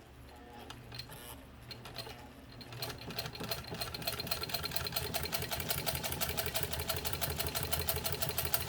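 1948 Singer 15 sewing machine stitching through two layers of leather. It starts slowly over the first few seconds, then runs at a rapid, even stitching rhythm.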